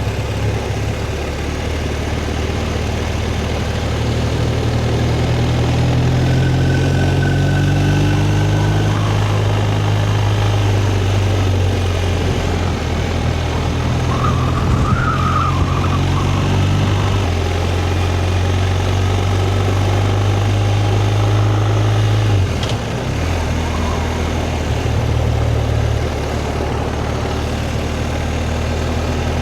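Motorcycle engine running steadily while being ridden, its note holding for long stretches and stepping in pitch a few times, with a brief drop about three quarters of the way through.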